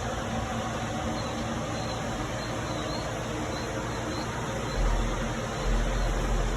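A steady mechanical hum with hiss, with faint repeated high chirps over it and a low rumble coming in about five seconds in.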